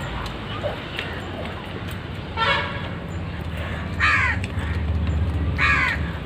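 A crow cawing three times, harsh calls about a second and a half apart, over a steady low rumble.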